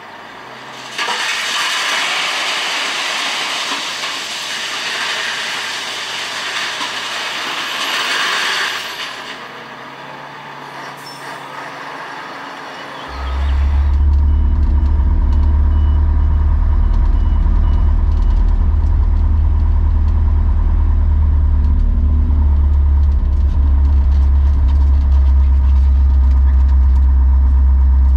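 Tatra Terrno1 tipper truck: a loud hiss lasting several seconds, then, about halfway through, its engine starts running loud and steady with a deep drone.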